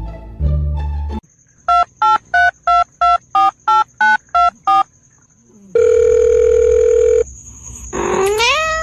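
Telephone keypad dialing: about ten short touch-tone beeps in quick even succession, followed by a steady tone lasting about a second and a half. Music plays briefly before the beeps, and a short rising cry is heard near the end.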